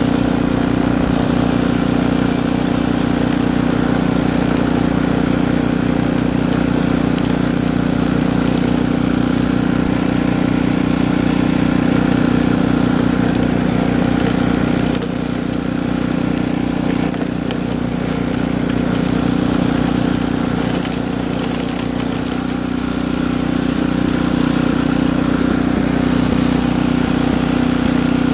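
Snowblower engine running steadily, its level dipping slightly about halfway through.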